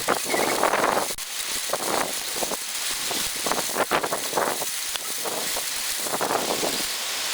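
Heavy rain hissing down in a sudden thunderstorm, with strong irregular wind gusts buffeting the microphone.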